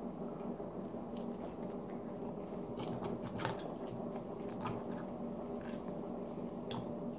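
A person chewing French toast, with wet mouth sounds and scattered light clicks, over a steady low hum.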